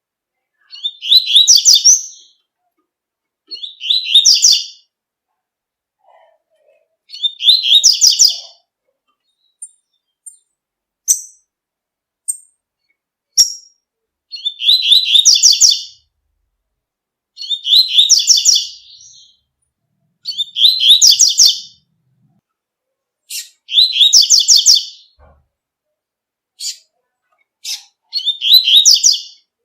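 A double-collared seedeater (coleiro) singing its 'tui tui' song: loud, high twittering phrases about a second and a half long, repeated every three seconds or so, with a few short single notes in the pauses.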